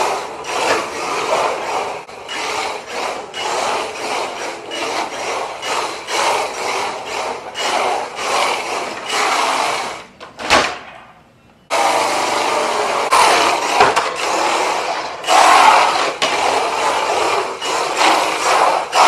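RC drift car sliding on an indoor floor: its tyres scrub and its motor whirs in quick repeated surges of throttle. The sound drops away briefly about ten seconds in, with one falling sweep, then comes back.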